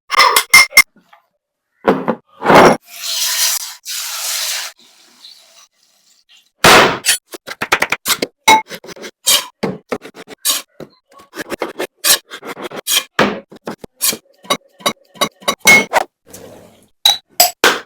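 Food-prep sounds: kitchen utensils knocking and scraping on a board or pan in quick, irregular strokes, with a short rush of noise about three seconds in and a dense run of knocks from about seven seconds on.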